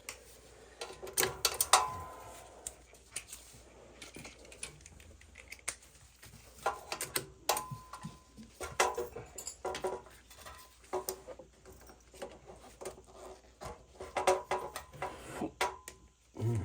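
Metal tools and oil burner parts clicking and clinking in an irregular run of small knocks, some with a short metallic ring, as the burner is closed up after cleaning.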